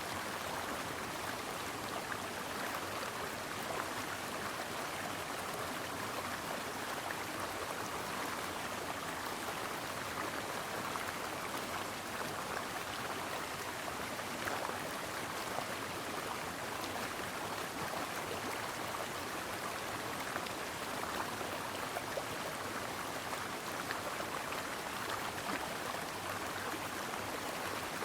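A brook flowing steadily: a continuous, even rush of running water.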